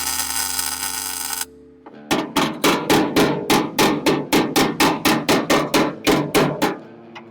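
A steady hiss that cuts off sharply about a second and a half in, followed by a rapid run of hammer blows on sheet metal, about four a second, lasting nearly five seconds.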